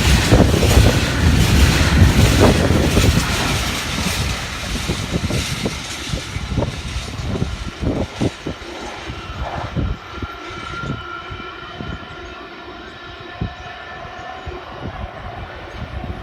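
Coal train wagons rumbling past and clicking over the rail joints. The rumble is loud for the first few seconds, then fades as the train draws away, leaving scattered clicks.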